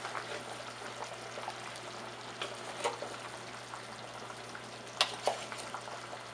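A pot of chicken curry soup bubbling at a steady boil, with a few short knocks, about four, as potato pieces go into the pot.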